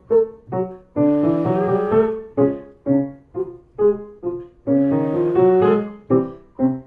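A piano plays short note patterns for a vocal warm-up, and twice a singer answers on a held, buzzy 'whoo' sound over it, each lasting over a second.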